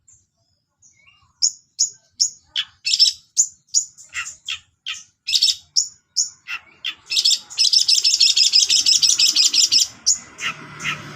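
Long-tailed shrike (cendet) singing loudly: a run of short, sharp, high chirps at about three a second, then a rapid unbroken trill for about two seconds, and a few chirps again near the end.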